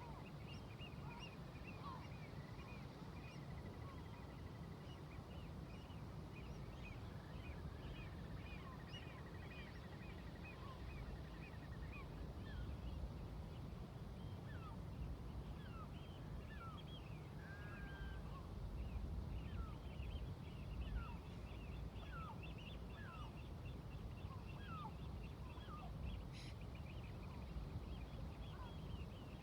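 A flock of seagulls calling continuously: many short, overlapping cries, some dropping in pitch. Underneath is a steady low rumble of ocean waves and distant traffic.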